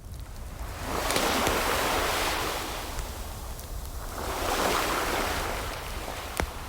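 Ocean waves washing in twice, each swell of surf rising and fading, with the crackle of a wood fire: scattered small pops and one sharp pop near the end.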